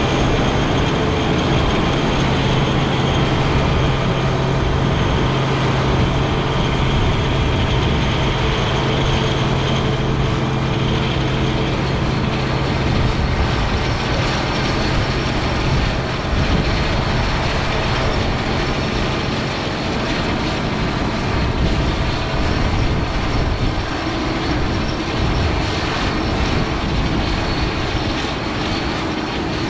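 International 1460 axial-flow combine running, a loud, even machinery drone. A steady engine hum under it fades about two-thirds of the way through.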